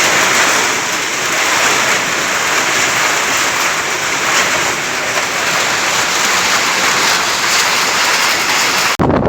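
Sandstorm: a loud, steady hiss of wind-driven sand and air. It cuts off abruptly about nine seconds in.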